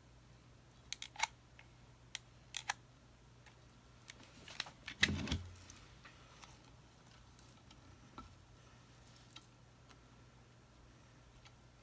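Scattered small clicks and snips, then a louder rustle and knock about five seconds in, from hands working with artificial greenery stems and tools on a craft table.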